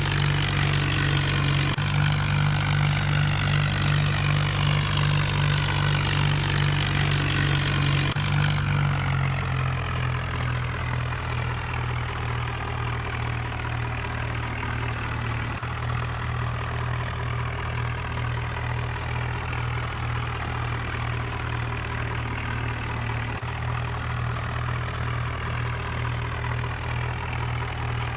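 Tractor engine running steadily; about a third of the way in its note drops and it settles to a lower, quieter idle.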